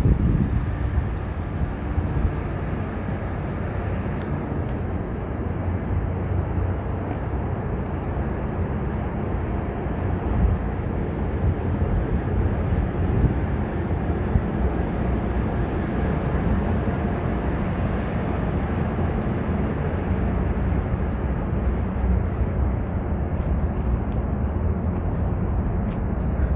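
Steady low rumble of vehicle traffic, an even noise with no distinct events.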